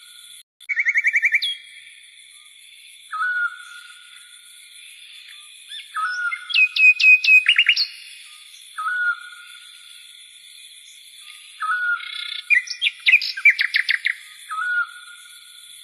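Songbirds chirping: a short rising call repeats every two to three seconds between fast trills, with two runs of rapid loud notes, one in the middle and one near the end.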